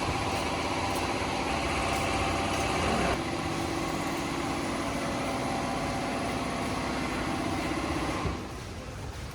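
A motor-driven machine running steadily with an even hum. Its note shifts lower about three seconds in, and it stops with a small knock just after eight seconds, leaving a quieter background hum.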